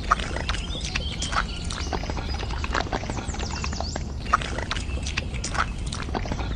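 Small hand trowel scraping and patting wet cement, a run of irregular clicks and soft slaps. A few short high chirps come about halfway through.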